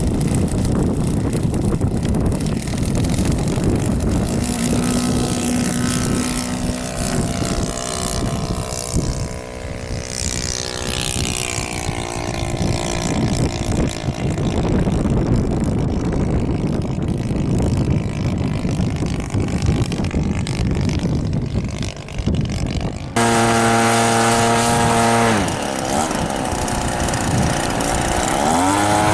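Radio-controlled model airplane engine and propeller flying past, its pitch sweeping up and down over a loud low rushing noise. About two-thirds of the way through, a cut brings in a steadier, louder engine note that drops in pitch and then climbs again.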